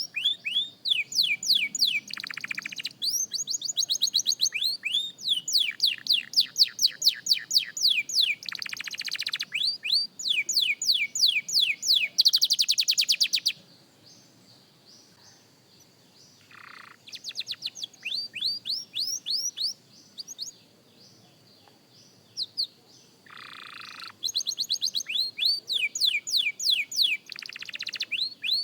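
Young canary singing practice song: rapid runs of repeated rising whistled notes, about five or six a second, broken by short buzzy rolls. The song pauses for a few seconds around the middle and again a little later, then resumes.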